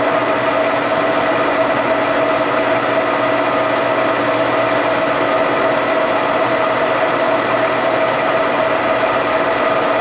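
Metal lathe running, a loud steady mechanical whine and gear hum with one strong pitch held throughout, switched on just before.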